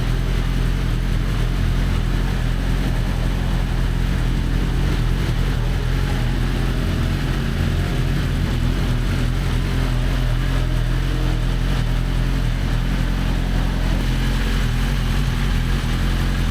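A motor running steadily at a constant speed, a low, even drone that holds one pitch throughout.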